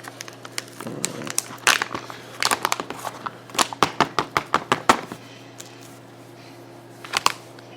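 A pack of mushroom coffee powder being handled, crinkling, with a run of quick sharp crackles in the middle and a short burst near the end.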